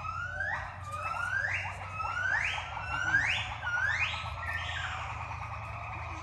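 A young monkey screaming: a run of shrill calls, each rising sharply in pitch, about one every three-quarters of a second, growing louder toward the middle and then drawing out into one held cry near the end.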